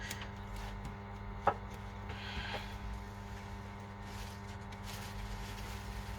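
Steady electrical mains hum with a few small clicks and a light rub from handling at the work surface. One sharper click comes about a second and a half in.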